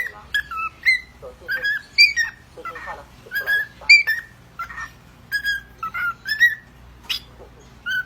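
Pet parrot whistling a run of short, chirpy notes, two or three a second, with a few raspy chattering calls mixed in.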